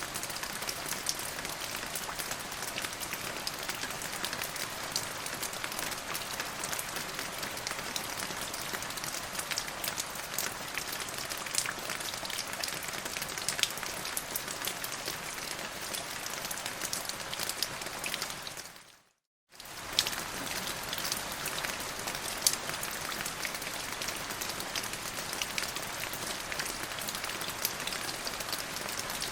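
Steady rain, a dense, even patter of drops. About two-thirds of the way through it fades out to silence for a moment, then fades back in.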